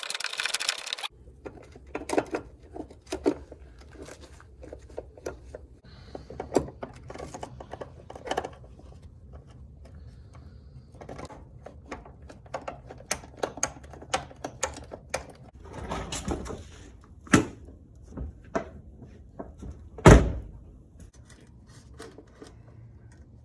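A power tool's whir cuts off about a second in, followed by scattered clicks, clinks and knocks of hand tools, bolts and the hinge being handled while a car door hinge is refitted. The loudest is a single knock about 20 seconds in.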